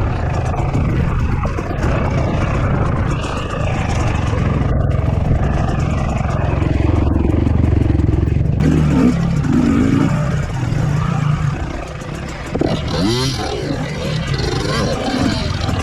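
Dirt bike engine running at low, varying revs over rough ground, with a few quick revs near the end.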